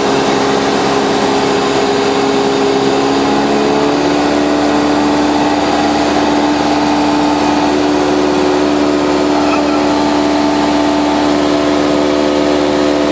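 Light aircraft's piston engine and propeller droning steadily, heard from on board; the pitch of the drone shifts about four seconds in.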